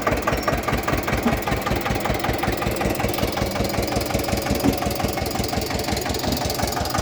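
Eicher 241 tractor's single-cylinder air-cooled diesel engine running steadily at a low speed, with an even beat of about eight firing strokes a second.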